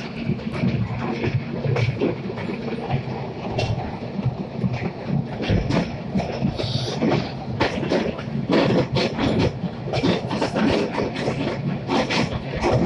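Narrow-gauge train hauled by a Borsig steam locomotive, running steadily, heard from on board: a continuous rumble of the carriages with frequent irregular clacks and rattles of the wheels on the track.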